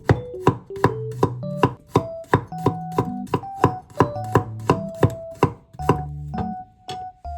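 Kitchen knife chopping on a cutting board in a steady rhythm, about three strokes a second, each a sharp tap.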